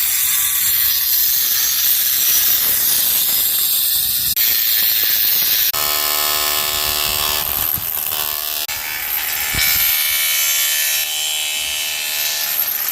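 Loud, steady metal-fabrication tool noise, broken by several abrupt changes. For a couple of seconds in the middle, a pitched whine with several tones runs under it.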